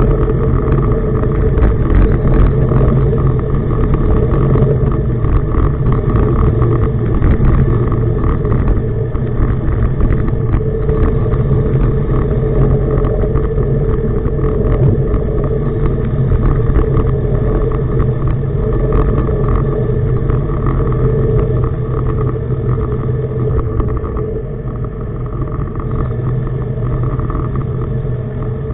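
Tugboat diesel engine running loud and steady, with a heavy low rumble, as the tug manoeuvres under power.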